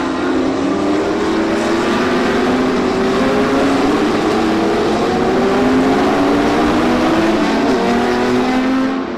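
Historic sports racing cars' engines running hard under acceleration, their pitch climbing steadily. About seven and a half seconds in the note drops at a gear change.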